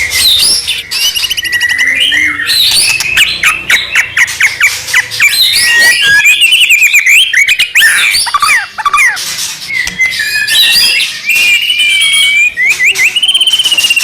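White-rumped shama (murai batu) singing a loud, fast, varied song of whistles, sweeping notes and rapid chattering phrases. Near the end a steady, wavering whistle sets in.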